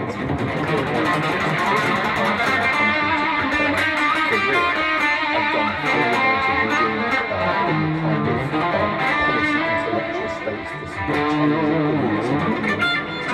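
Guitar played solo and improvised: a free-running riff of picked notes and strums.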